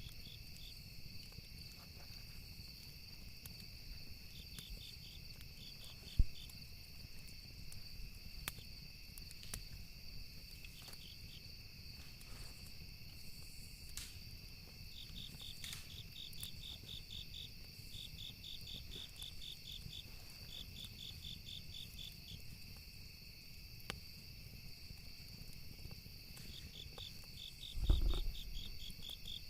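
Campfire ambience: wood crackling with scattered sharp pops, one loud pop about six seconds in, over steady insect chirping in quick pulse trains. A low thump near the end.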